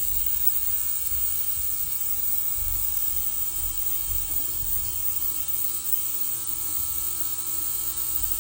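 Ultrasonic cleaner running with a steady buzzing hiss while it cleans small engine parts and screws.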